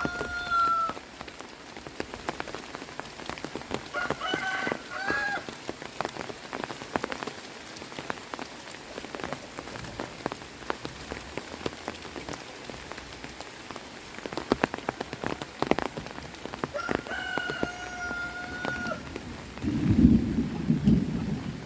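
Heavy rain falling on surfaces, with many single drops ticking sharply. A rooster crows three times: at the start, about four seconds in, and a long held crow at about seventeen seconds. Near the end a low rumble, the loudest sound, breaks in.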